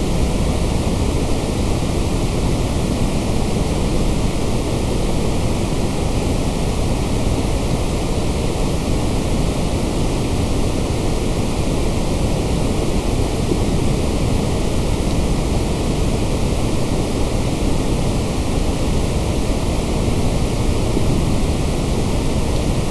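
Steady synthetic white noise: an even, unbroken hiss, fuller in the low end, with no change throughout.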